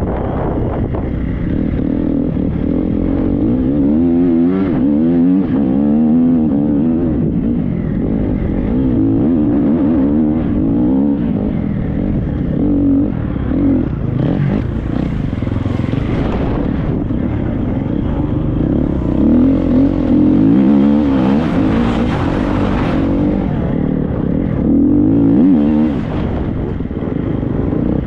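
Triumph 250 motocross bike's engine, a four-stroke single, running hard off-road, its revs rising and falling continually with throttle and gear changes. Wind noise rushes over the microphone twice in the second half.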